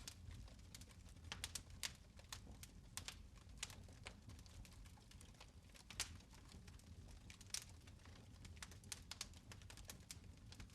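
Fire crackling in a fireplace: quiet, irregular pops and snaps, a few louder than the rest, over a faint low rumble.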